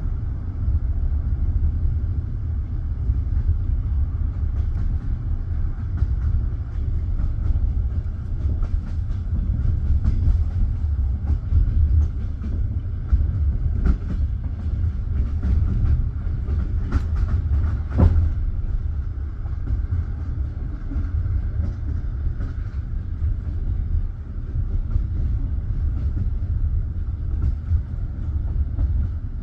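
Passenger train carriage rolling along the track: a steady low rumble of wheels on rail, with several sharper clicks of the wheels a little past the middle.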